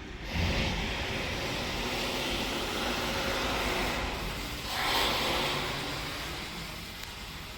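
A vehicle running, heard as a steady rushing noise that comes up sharply about a third of a second in and swells again about five seconds in, then slowly eases.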